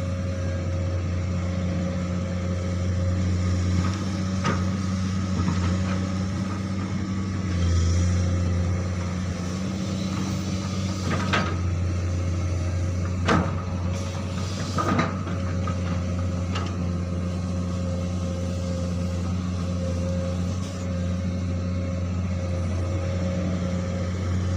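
Komatsu PC200 hydraulic excavator's diesel engine running steadily under work, with a few sharp knocks in the middle.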